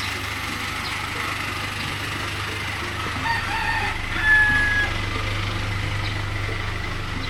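A rooster crows once, about halfway through, ending on a held high note, over a steady low hum.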